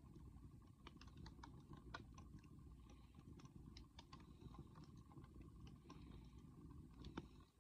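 Wood bonfire crackling softly: irregular faint pops and snaps over a low, steady rumble, with one sharper snap near the end.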